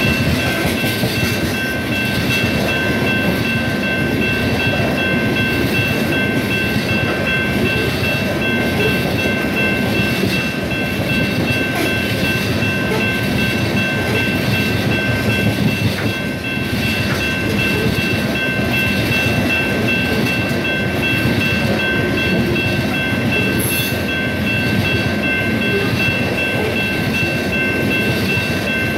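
Cars of a 130-car coal train rolling past at speed: a steady loud rumble and rattle of steel wheels on rail, with a steady high-pitched whine over it and faint repeated clicks of wheels crossing rail joints.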